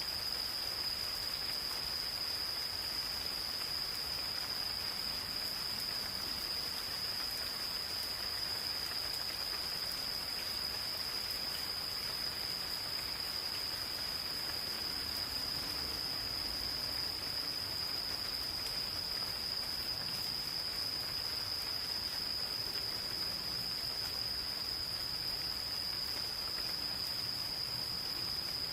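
Gentle rain falling steadily in a forest, with a continuous chorus of insects making an unbroken high-pitched ringing over it.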